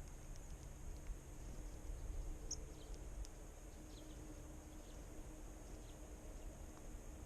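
A few faint, brief bird chirps of small wild birds over low outdoor background rumble, with a steady high-pitched hiss.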